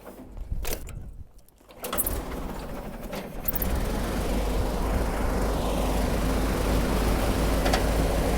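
1925 AutoCar Model 27K truck engine being started on choke: a few separate knocks as it fires. It catches about two seconds in and is running steadily by about three and a half seconds.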